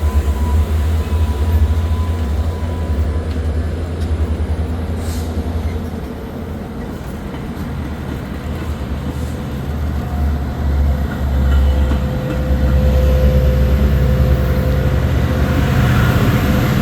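Metra commuter train's diesel locomotive running at the platform with a steady low rumble, growing louder over the last few seconds.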